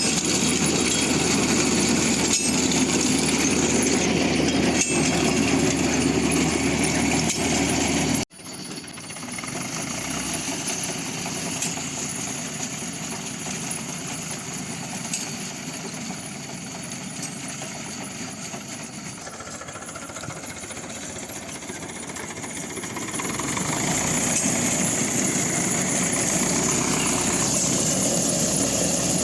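Zetor Super 50 tractor's four-cylinder diesel engine running while it pulls a Tek Z-609 potato digger. The sound drops off abruptly about eight seconds in, carries on quieter, then grows louder again over the last several seconds.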